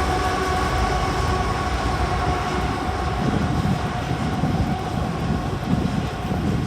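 CSX freight train passing close by. The diesel locomotives' steady whine fades as they go by, and the coal cars' rumble and clatter over the rails builds from about three seconds in.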